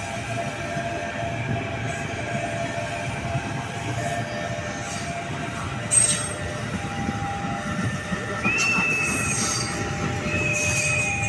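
A train running past with a steady rumble and a ringing wheel squeal, with a sharp click about six seconds in and a higher squeal coming in twice near the end.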